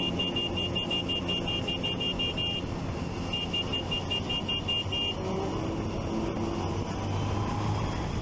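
Motorcycle and traffic noise with a rapid, high electronic beeping, about six beeps a second, that breaks off about two and a half seconds in, starts again, and stops about five seconds in. An engine note rises slightly near the end.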